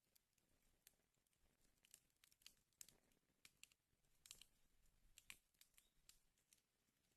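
Wood fire crackling in a fireplace, faint, with irregular sharp snaps and pops; small clusters of louder snaps come a little before the middle and again about three-quarters of the way through.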